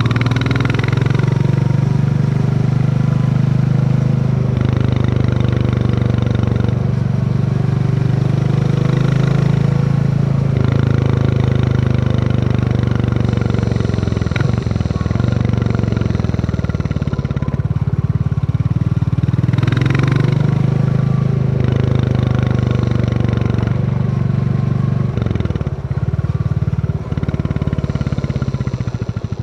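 Royal Enfield Classic 350 single-cylinder engine thumping under way, picked up from the rider's backpack. The engine note rises and falls every few seconds with the throttle and gear changes.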